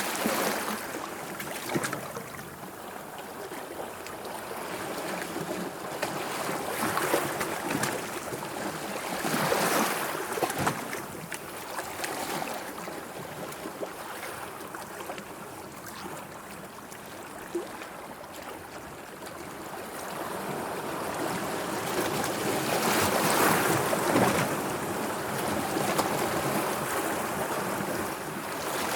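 Sea waves washing and lapping, swelling louder several times, most strongly near the end.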